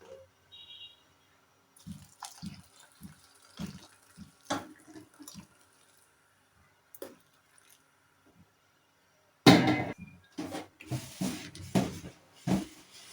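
Water dripping and splashing in a sink, among soft knocks of handling, with several louder splashes near the end.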